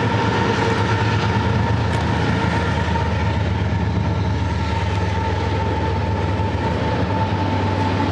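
1992 Cub Cadet garden tractor's 16 hp V-twin engine running steadily, with a steady high whine over the engine note.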